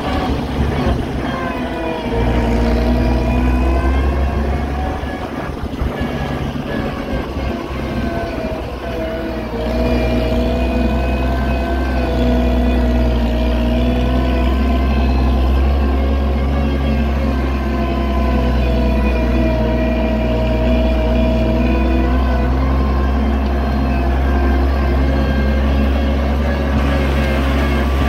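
Oliver 770 tractor's six-cylinder engine running steadily under load, its note sagging slightly and recovering as the load changes.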